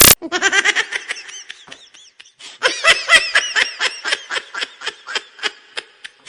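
A comedy laughter sound effect: a run of quick, high-pitched giggling, a short pause, then a longer run of rapid laughs at about three or four a second. It opens with the tail of a loud burst of noise that cuts off suddenly.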